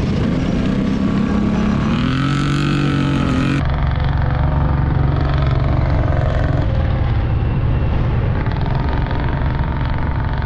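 ATV engines running, one revving up with a rising pitch about two seconds in; the sound changes abruptly a little over three seconds in to a steadier, deeper engine drone.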